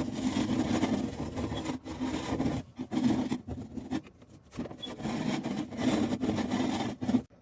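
Hand rubbing and scraping at the furnace inducer's seal surface to clean it, in several long strokes with short pauses between them.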